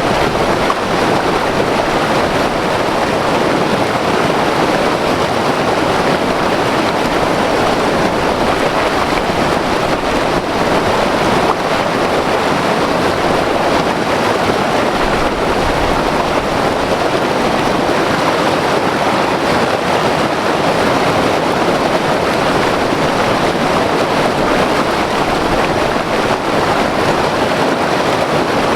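White water river rushing over rocks, a loud, steady roar of flowing water with no change.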